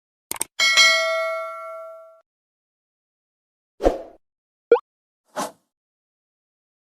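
A quick double click, then a single metallic ding that rings out and fades over about a second and a half. After a pause come a dull thump, a short gliding chirp and a brief hiss.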